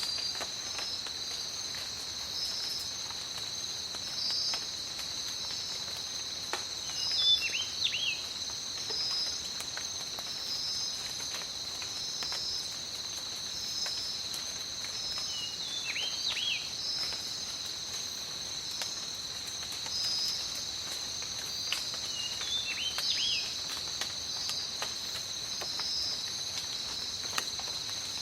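Tropical forest ambience: a steady, high insect chorus with a pulsing trill on top, a bird giving a short chirping call three times, and scattered raindrops ticking and dripping.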